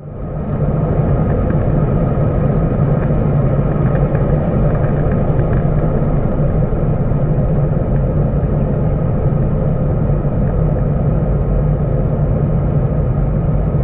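Jet airliner cabin noise: the engines and rushing air make a loud, steady rumble with a low hum that holds level throughout.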